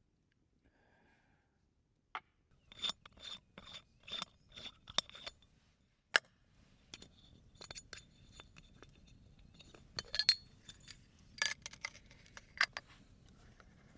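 Metal cooking utensils clinking and scraping: a quick run of even scrapes with a faint metallic ring, then scattered sharper clinks.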